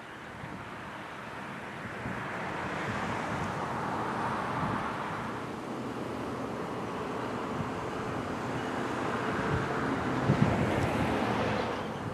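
Brightline passenger train passing by, its wheel and running noise swelling twice, about four seconds in and again near the end, with a couple of sharp thumps about ten seconds in.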